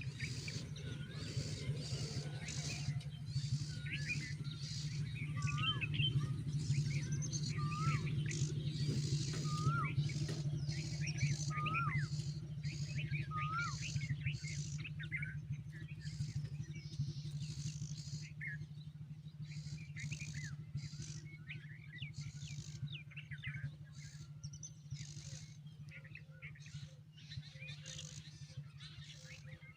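Birds chirping: short up-and-down call notes repeated every second or two, with quick high chips in between, growing sparser in the second half. A steady low hum lies underneath.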